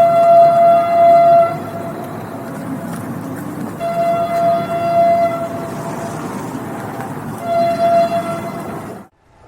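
Train horn sounding three times over the steady rumble of the train: a long blast at the start, a second blast about four seconds in, and a shorter one near the end. The sound cuts off suddenly just before the end.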